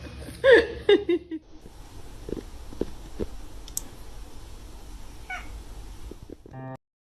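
Cat meowing: one loud meow about half a second in, followed by a couple of short calls, then a fainter meow past the middle. A few light knocks sound in between.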